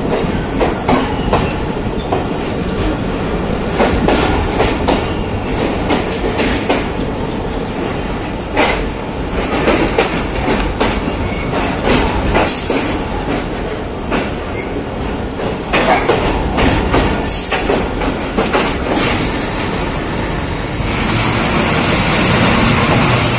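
Passenger train carriage rolling slowly into a station platform: wheels clatter and click over the rail joints and points, with brief high wheel squeals now and then. Near the end the clatter gives way to a steadier hiss.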